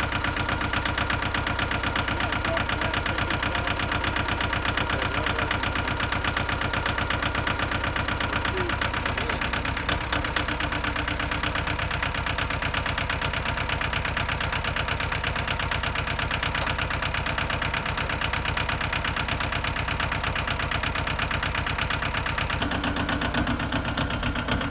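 Yanmar compact tractor's diesel engine idling steadily, its tone shifting slightly near the end.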